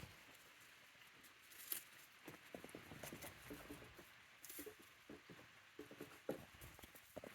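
Faint, irregular tapping and scuffling of young goats' hooves as they run and jump.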